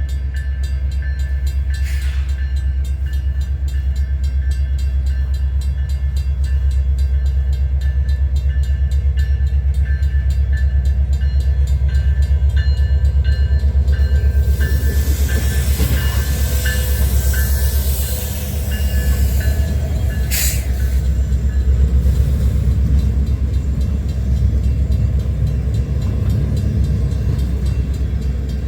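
The CPKC Holiday Train rolling by: a steady low rumble from the diesel locomotives and rail cars. About halfway through, a rush of higher, hissing noise lasts several seconds.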